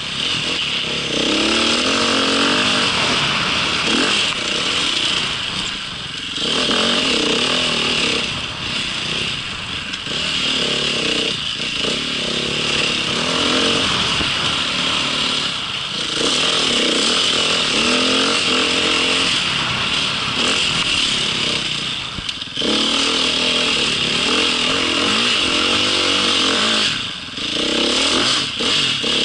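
A small vehicle engine running under varying throttle, its pitch rising and falling again and again, easing off briefly about 6, 16, 22 and 27 seconds in.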